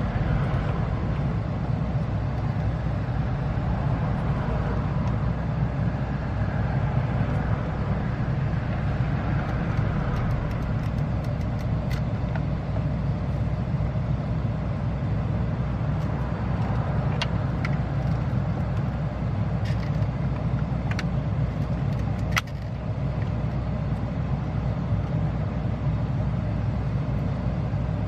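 A steady low rumble, with a few sharp clicks scattered through the middle.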